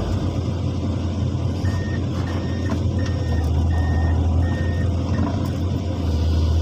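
Heavy diesel engine of an excavator running steadily and low. In the middle, a backup alarm sounds a row of short, evenly spaced beeps, about two a second, for some three seconds.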